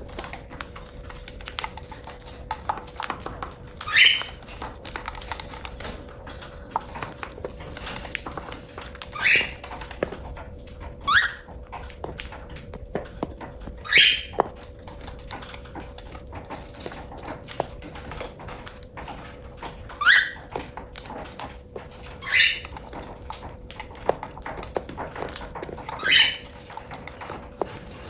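Cockatiel giving short, high rising calls, seven of them a few seconds apart, with light clicks in between and a steady faint hum underneath.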